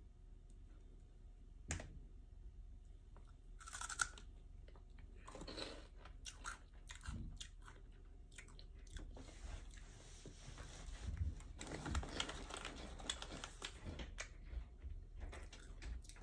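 A person biting and chewing crunchy Cheetos corn puffs, crunching on and off, thickest in the second half.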